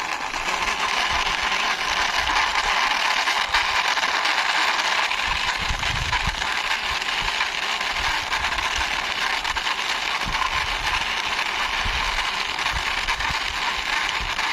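Plastic wheels of a toy double-decker bus rolling across a hard surface as it is pushed by hand, a steady rattling rumble with occasional light knocks.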